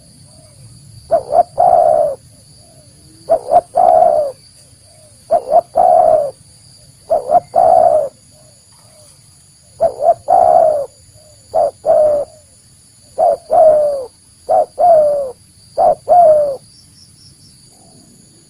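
Spotted dove (tekukur) cooing: short phrases repeated about every two seconds, each a few quick notes running into a longer coo that falls in pitch.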